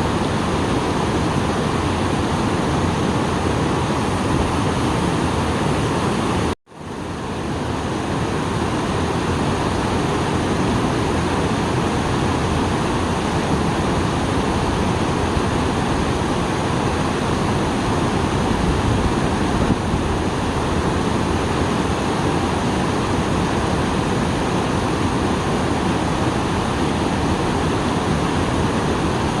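Small waterfall after rain, its water rushing in a steady, even roar. The sound cuts out for an instant about six and a half seconds in, then returns.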